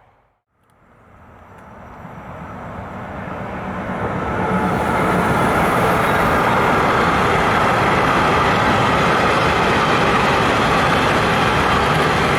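A train passing close by: its rolling noise fades up out of near silence and grows over the first few seconds, then holds as a steady, loud rush of wheels on rails.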